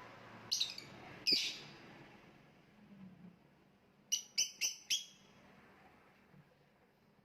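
Lovebird giving short, high chirps: two about a second in, then a quick run of four near the middle.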